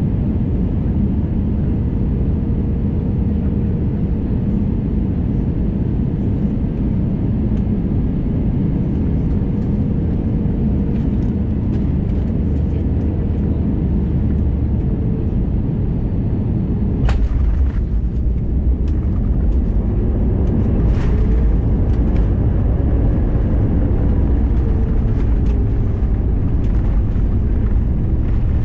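Airbus A321neo cabin noise: the engines and airflow make a steady low rumble with a thin steady tone. About two-thirds of the way in there is a sharp knock as the aircraft touches down. After it the rumble grows louder and the engine tones slide down in pitch.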